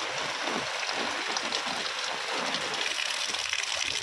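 Heavy rain falling on an open umbrella held over the microphone: a steady, dense hiss of drops with many fine ticks, and irregular low thuds underneath.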